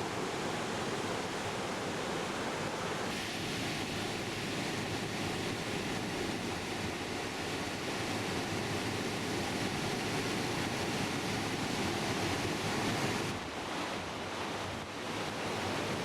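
Rough sea surf breaking on a sandy beach: a steady wash of waves. Its character changes abruptly about three seconds in and again near the end.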